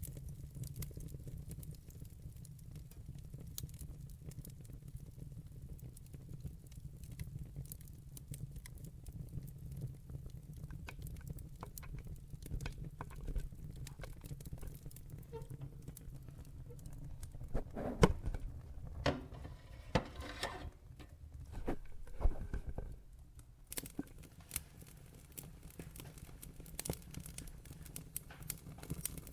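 Wood fire in a fireplace crackling over a steady low rumble, with scattered sharp pops. A flurry of louder pops comes about two-thirds of the way through.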